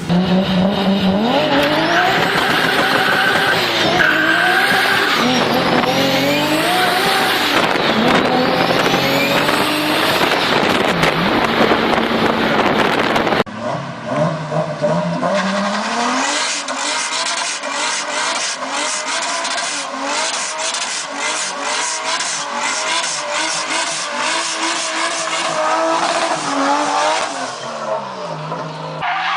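Big-turbo Toyota Supra engine revving up and down over and over, in two separate recordings with a cut about halfway through. In the second part a rapid crackle of short pops runs over the rise and fall of the revs.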